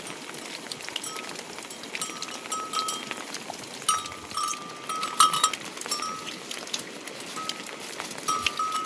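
A small metal bell clinking and ringing in short, irregular strokes, busiest in the middle and again near the end, over a steady hiss.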